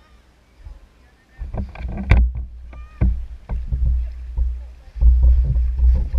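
Jet ski riding on the sea: loud low rumble of wind and motion on the microphone with repeated sharp slaps and knocks from the hull hitting the water, starting about a second in.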